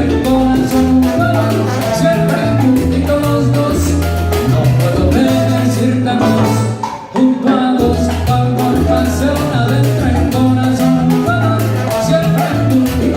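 Live salsa band playing, with steady percussion and a repeating bass line; the band drops out for a brief break a little past halfway, then comes back in.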